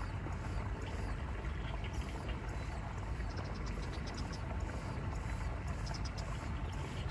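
Birds chirping in short, high calls, with quick runs of notes about three seconds in and again near six seconds, over a steady low rumble.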